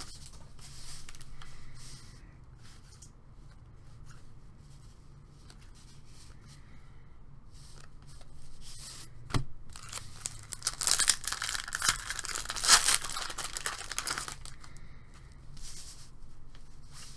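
Baseball card pack wrapper being torn and crinkled open, loudest from about ten to fourteen seconds in, with a sharp click just before it and light rustling of handled packs and cards in the quieter stretches.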